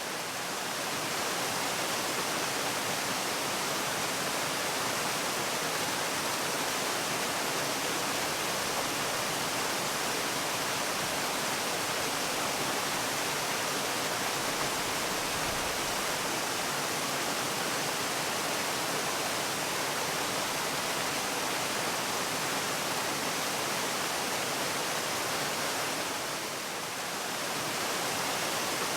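Steady rushing of falling water from a waterfall, an even hiss without breaks that dips slightly for a moment near the end.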